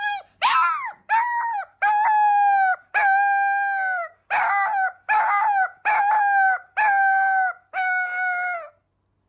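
A dog howling in a run of about ten short, high, level-pitched howls, one after another. The first slides down in pitch.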